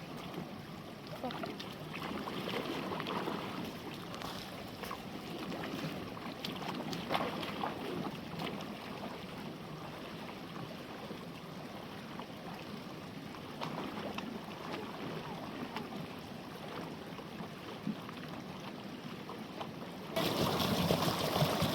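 Running water with small splashes and clicks, suddenly louder near the end.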